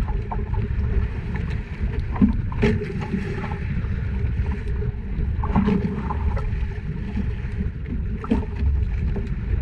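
Small fishing boat at sea: a steady low rumble with water and wind noise, and a few short knocks scattered through.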